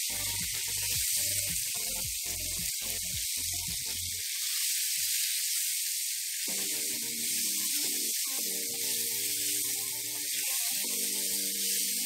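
Red and yellow bell peppers sizzling in hot oil in a frying pan, a steady hiss, over background music: a beat that stops about four seconds in, then a melody from about six and a half seconds in.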